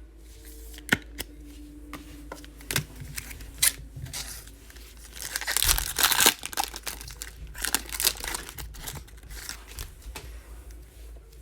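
A trading card pack's foil wrapper being torn open and crinkled: a few sharp clicks and rustles, then one loud tearing rip about six seconds in, followed by crinkling of the wrapper and handling of the cards.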